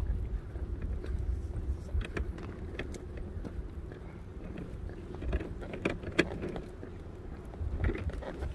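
Walking sounds: irregular steps and small clicks and rustles, over a low rumble of wind on the microphone.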